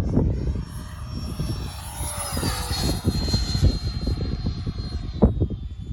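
Electric ducted-fan whine of a Freewing F-22 Raptor RC jet flying past, its pitch dropping about halfway through as it goes by. Wind buffets the microphone throughout.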